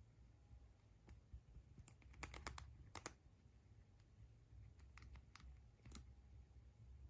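Faint, scattered clicks and taps of small items being handled during an unboxing, with a few quick clicks bunched together about two to three seconds in, over a steady low hum.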